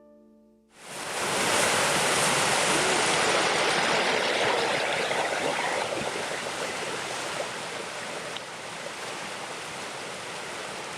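A steady rush of running water, a stream flowing, starts about a second in and eases slightly partway through. Before it, the last note of a plucked-string tune dies away.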